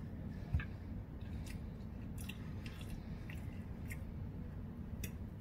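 A person chewing a mouthful of macaroni and cheese, with scattered small mouth clicks and one low thump about half a second in.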